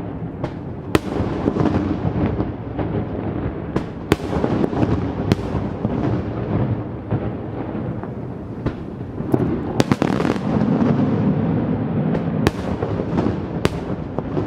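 Fireworks display: a continuous rumble and crackle of bursting shells, with many sharp bangs scattered throughout, coming thickest about a third of the way in and again about two-thirds through.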